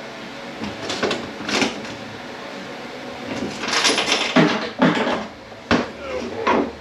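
Irregular metal knocks and clunks as a stuck part is worked loose from a Ford 10R80 ten-speed automatic transmission during teardown, with more knocks in the second half.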